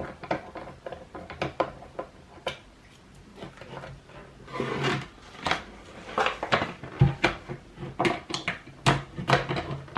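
Skateboard truck mounting nuts being tightened onto their bolts with a hand tool: irregular small metallic clicks and knocks of tool, hardware and wooden deck, with a couple of louder knocks in the second half.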